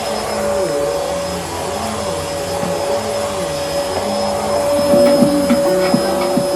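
Bissell Helix upright vacuum cleaner running with a steady whine, while a lower tone rises and falls repeatedly. A few short clicks and knocks come near the end.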